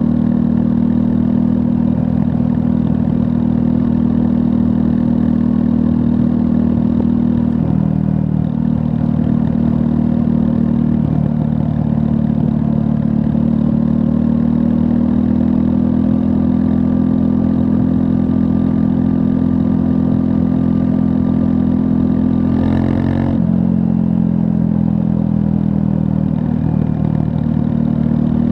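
Triumph Scrambler 400 X's 398 cc single-cylinder engine running steadily while riding. Its note dips about eight seconds in and changes briefly with a short break about 23 seconds in.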